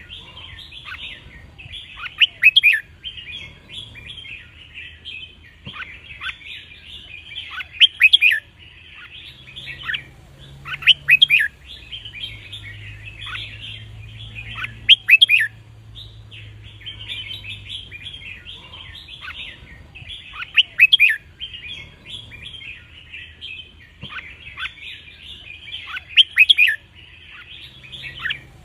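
Red-whiskered bulbul song: a continuous twittering chatter broken by about six loud, clear song phrases a few seconds apart.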